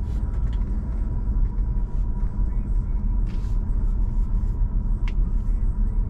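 Off-road vehicle's engine running with a steady low rumble, with a few faint clicks over it.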